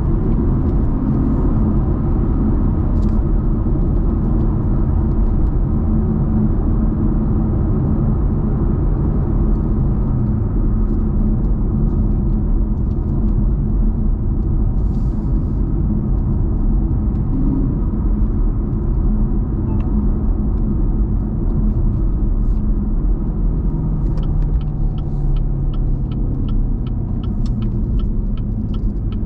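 Muscle car cruising at a steady speed, its engine a continuous low rumble over road noise. Near the end the engine note shifts and a run of quick, regular ticks comes in.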